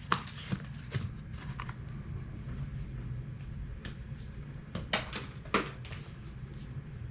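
Scattered light clicks and rustles of handling, a few at a time, over a low steady hum.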